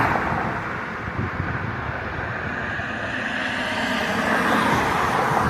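Passing traffic: the rushing noise of a vehicle going by, easing off after the start and swelling again near the end.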